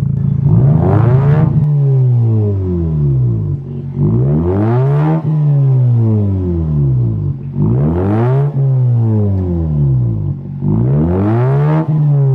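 Mazda RX-8's twin-rotor rotary engine breathing through a stainless straight-through exhaust, blipped from idle four times, about every three and a half seconds. Each rev climbs quickly and then sinks more slowly back to idle.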